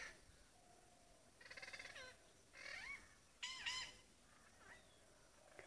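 A bird calling, faint: about four short calls roughly a second apart, some with rising and arching notes and one buzzy.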